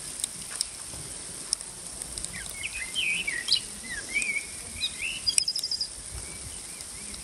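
A songbird singing a short warbling phrase of rising and falling notes that ends in a brief high trill, over a faint steady hiss with scattered light ticks.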